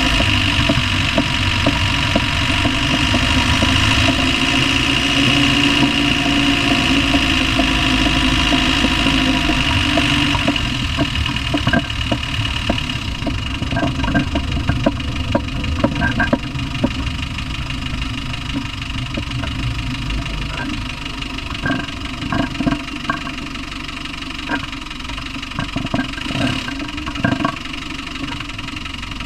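Land Rover Discovery 1's 300Tdi 2.5-litre four-cylinder turbodiesel running, with a steady whine for the first ten seconds or so. The engine then settles quieter and irregular sharp knocks come through: an unexplained knocking noise whose cause is unknown.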